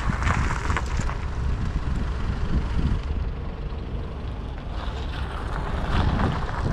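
Tractor engines running on the road, with wind buffeting the microphone; the noise swells near the start and again about five seconds in, as of vehicles passing close.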